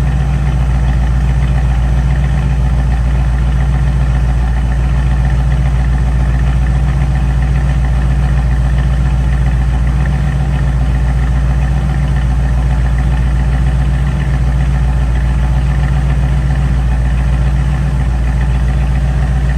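1992 Ford Mustang LX engine idling steadily, warming up after a cold start.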